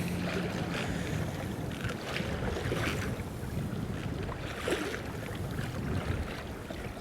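Wind buffeting the microphone over choppy sea, with water splashing and slapping against a kayak hull.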